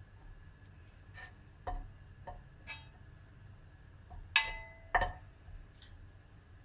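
A handful of light taps and clinks of small hard objects, the two loudest about four and five seconds in, each with a short ringing tail.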